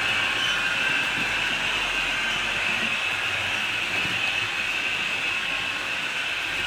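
HO scale model train running on the layout: a steady whirring motor and wheel noise on the track, easing off slightly in the second half.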